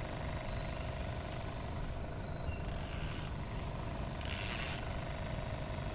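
Boat's motor running steadily at slow trolling speed, a low hum with a faint whine. Two short hissing bursts come about three and four and a half seconds in, the second louder.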